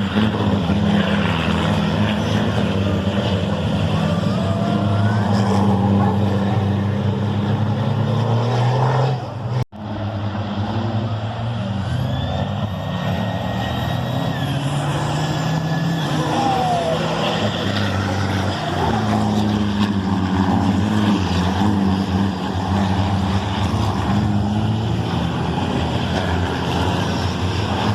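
Heavy racing-truck engines running at the circuit, their low pitch stepping up and down as they rev, with a brief cut in the sound about ten seconds in.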